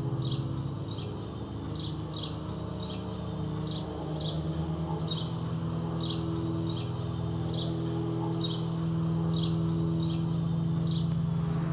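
A bird repeating a short, falling chirp about twice a second, over a low steady drone.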